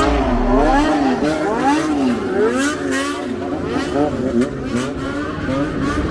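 A vehicle engine revved over and over in a steady rhythm, its pitch climbing and dropping about once every three-quarters of a second.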